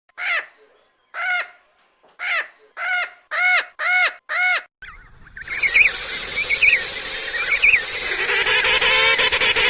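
Bird calls: seven short, clear calls about a second apart, coming faster toward the end, then from about five seconds a dense, noisy clamour of many birds calling together.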